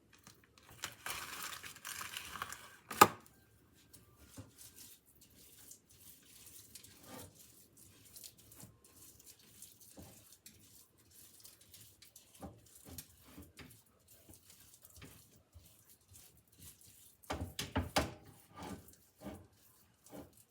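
Kitchen handling noises: a rustling, crinkling stretch, then one sharp knock about three seconds in. Scattered light taps follow, with a cluster of knocks and clatter near the end.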